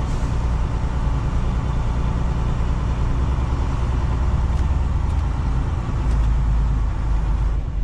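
Semi truck's diesel engine running at low speed as the truck is maneuvered into a parking spot, heard as a steady low rumble from inside the cab that swells a little near the end.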